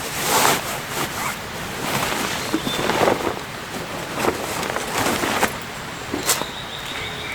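Irregular rustling, scraping and light knocks of things being handled, one stroke after another at uneven intervals.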